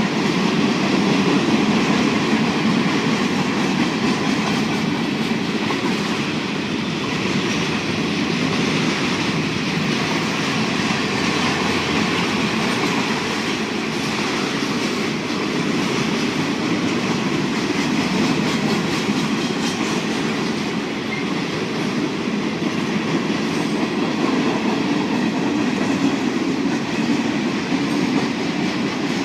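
A train rolling past: railcar wheels rumbling and clacking steadily over the rails.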